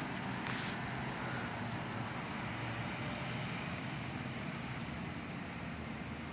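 Diesel engine of a Pierce Quantum fire engine running at low speed, a steady low rumble that slowly fades, with a short hiss about half a second in.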